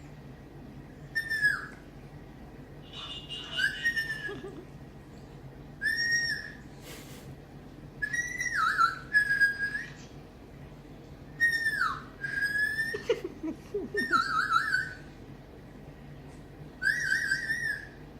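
A series of about nine short whistles, each under a second and near the same pitch, some dipping or warbling down at the end, with short pauses between them.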